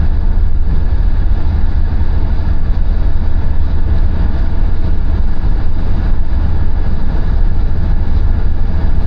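Car driving at speed on a highway: a steady low rumble of road and engine noise, even throughout.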